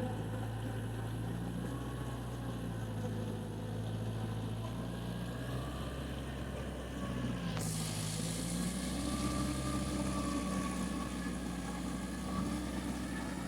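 An engine running steadily, its pitch shifting slightly now and then; about halfway through a steady hiss joins it.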